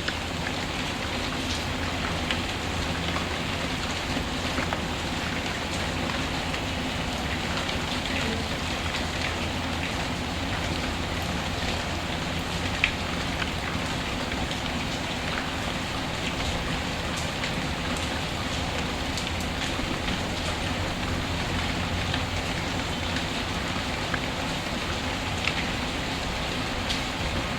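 Steady rainfall mixed with a crackling wood fire: a continuous rain hiss with scattered sharp pops and crackles, one louder pop about halfway through.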